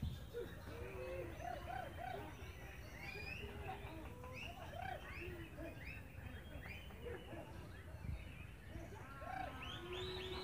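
Many songbirds chirping and whistling at once, short overlapping calls throughout, over a steady low rumble.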